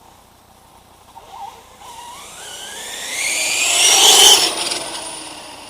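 Brushless electric drive of a Redcat MT RC monster truck, converted to a Castle Creations motor on 6S LiPo, whining and rising in pitch as it accelerates. It is loudest a little past four seconds in, then fades away.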